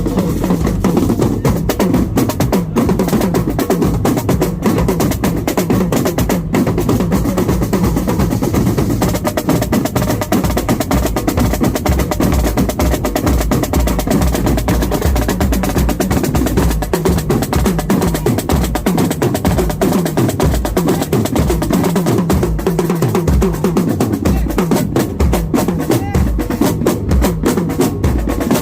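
Marching drum corps playing: snare and bass drums beating a dense, continuous cadence with rolls.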